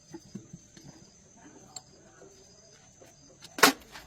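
Scattered light taps and clicks, then one loud, sharp knock about three and a half seconds in.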